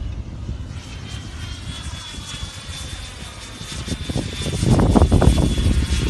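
Twin electric ducted fans of a Freewing F-22 RC model jet flying past: a steady high-pitched whine with a swirling, phasing sound, mixed with wind buffeting the microphone, which surges loudest about four and a half seconds in.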